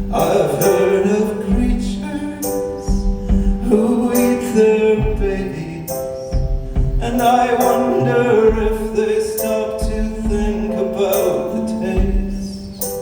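Live rock band playing a song, with drums keeping a steady beat under sustained keyboard or guitar chords and a sung vocal line.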